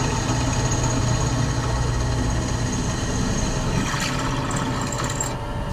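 Harley-Davidson V-twin engine running steadily at idle.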